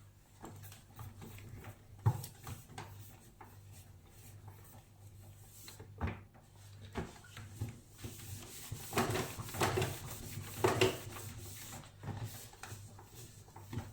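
Scattered knocks and clicks of a microwave and its surfaces being handled, with a busier stretch of rubbing and knocking about eight seconds in, over a low steady hum.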